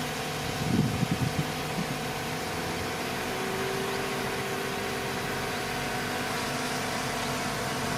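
Heavy diesel engine of earthmoving machinery running steadily, with a few low knocks about a second in.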